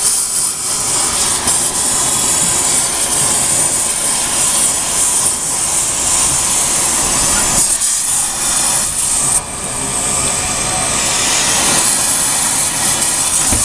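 Dodge Neon's four-cylinder engine running loud and raspy through a short exhaust that ends in a small tuna-can muffler, with a sudden drop in level about nine and a half seconds in.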